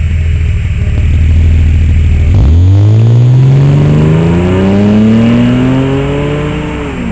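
1997 BMW 528i inline-six, with S52 cams, Raceland headers and a Magnaflow 14834 muffler, running steadily at first. About two and a half seconds in it picks up sharply and then climbs steadily in pitch for about four seconds before letting off near the end.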